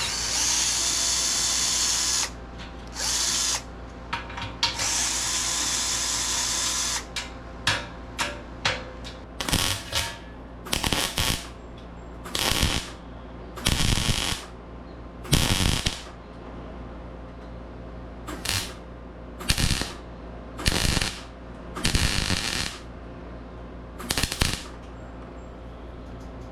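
Cordless drill backing out self-tapping screws from sheet steel. It runs for a couple of seconds at first, then in many short trigger bursts.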